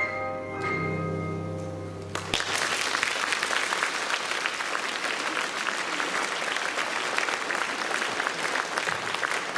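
The last held chord of a song's instrumental accompaniment stops abruptly about two seconds in. An audience then breaks into steady applause.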